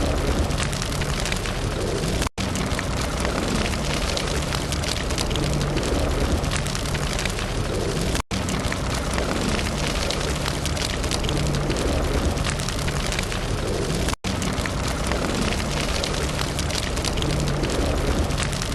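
Wood campfire burning with a dense, steady crackle. Three times the sound drops out for a split second.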